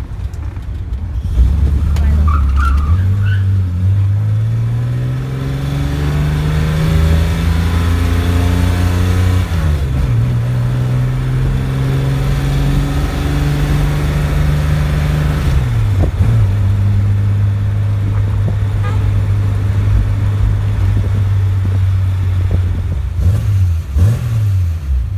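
Chevrolet Opala's engine heard from inside the cabin as the car pulls away and accelerates, its pitch climbing, then dropping sharply twice as it shifts up, about nine and fifteen seconds in. It then runs steadily, with two short revs near the end.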